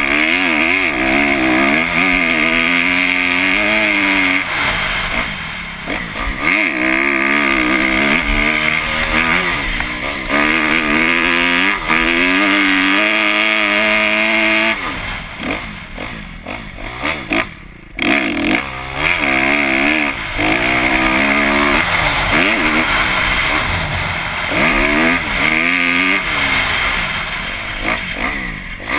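Kawasaki KX250F's 250cc four-stroke single-cylinder engine being ridden hard on a motocross track, its pitch climbing and dropping again and again with each burst of throttle and shift. About halfway through it drops back to a lower level for a few seconds before picking up again.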